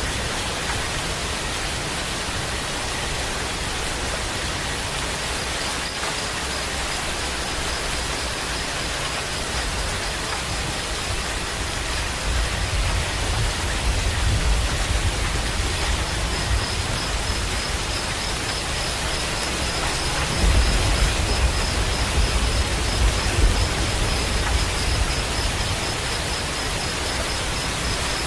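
Steady heavy rain, an even hiss throughout, with low rumbling swells about halfway through and again in the last third.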